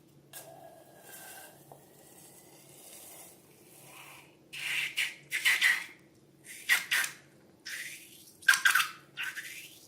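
Close-up slime-making handling sounds with balloons. Faint rustling gives way, about halfway through, to about six short, sharp, noisy squelches and crinkles.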